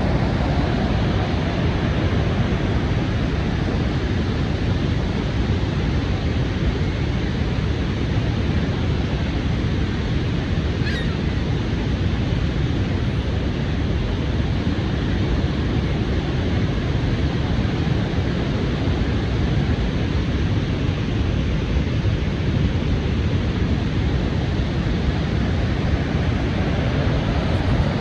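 Steady, deep rush of water going over Niagara Falls, unbroken and heaviest in the low range.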